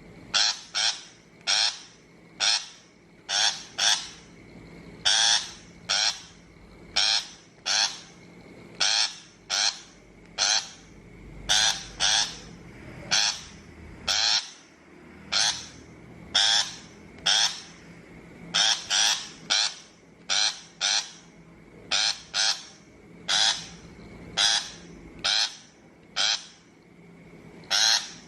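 Shrike giving harsh, rasping calls over and over, short grating notes about once a second, sometimes in quick pairs. This is a recording used as a lure to draw shrikes to a trap.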